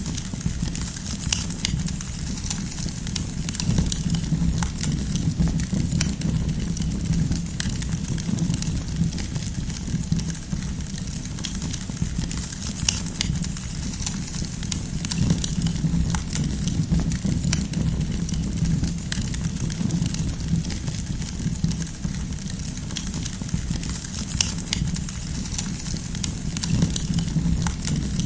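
Wood campfire crackling steadily, with frequent sharp pops and snaps over a low, steady rumble of the burning fire.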